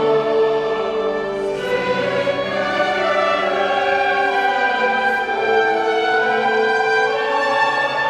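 A choir singing with orchestral accompaniment, sustained held chords.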